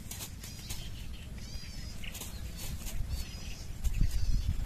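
A bird calling in short, repeated warbling phrases. From about four seconds in, low rumbling gusts of wind on the microphone are the loudest sound.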